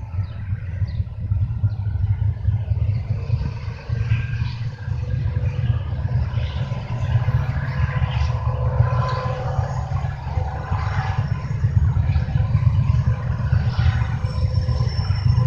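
Union Pacific freight train rolling past: a steady low rumble of steel wheels on rail, with irregular clatter and faint high metallic squeals over it.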